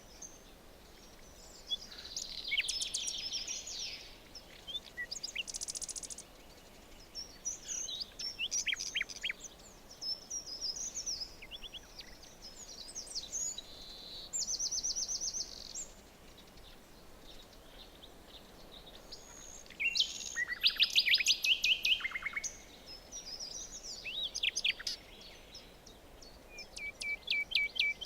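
Several songbirds singing in a forest, with trills, rapid runs of high notes and short chirps overlapping over a faint steady background hiss; the loudest burst of rapid notes comes about two-thirds of the way through.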